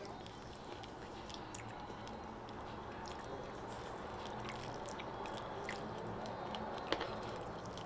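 Close-up chewing of a mouthful of fried brown rice with shrimp, with small wet clicks throughout. A metal spoon clinks sharply against the food container about seven seconds in.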